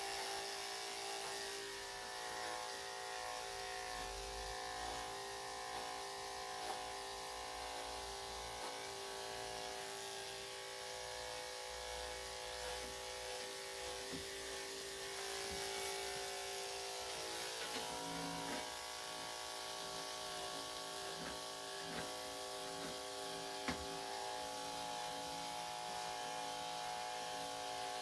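Electric dog grooming clippers with a #3 3/4 blade running with a steady buzz, with short irregular ticks and bumps as the blade works through the coat.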